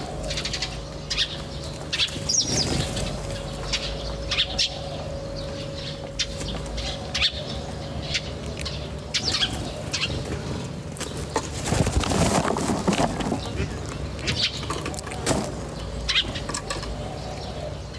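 Birds chirping: many short, high chirps scattered throughout, over a steady low hum, with a louder rustling burst about twelve seconds in.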